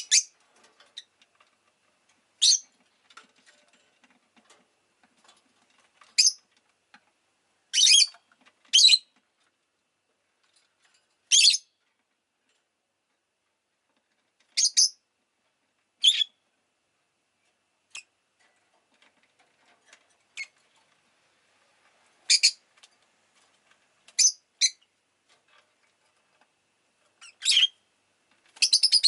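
Rosy-faced lovebird (Agapornis roseicollis) giving short, high-pitched chirps, singly or in quick pairs every second or few, with quiet gaps between.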